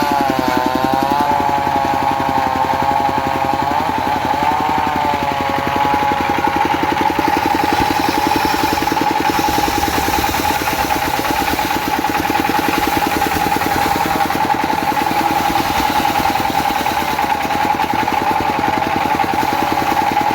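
Diesel-driven circular saw sawing teak: a steady rapid engine chug under a high blade whine whose pitch wavers up and down for the first few seconds, then holds mostly steady with small dips.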